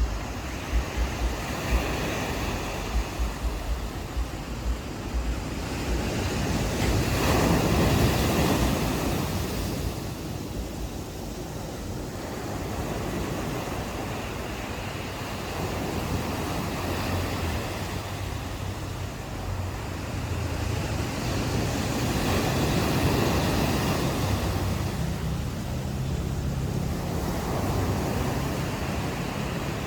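Ocean waves breaking and washing on a shore, with two big swells about a quarter and three quarters of the way through. Wind buffets the microphone at the start, and a low steady hum comes in during the second half.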